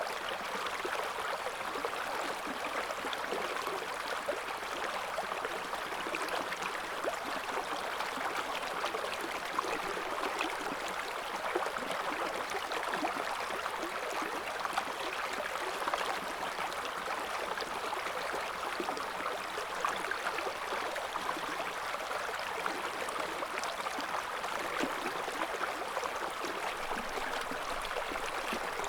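River water running steadily over stones, a constant babbling and gurgling flow.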